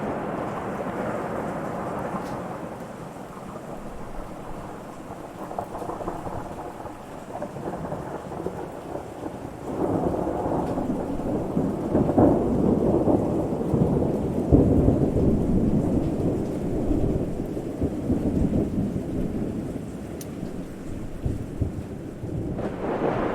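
Rolling thunder rumbling steadily over rain. About ten seconds in a deeper, louder peal builds, holds for several seconds, then slowly dies away.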